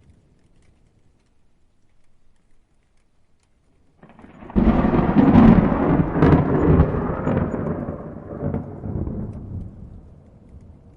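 A thunderclap about four seconds in: a sudden sharp crackle that rolls on as rumbling thunder and fades away over about five seconds.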